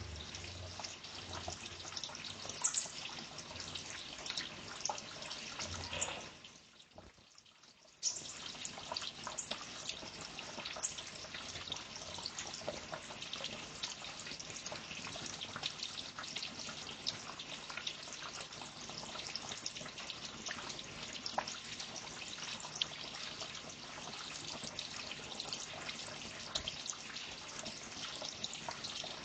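Water trickling and dripping steadily, with many small splashes; it fades out about six seconds in and comes back abruptly two seconds later.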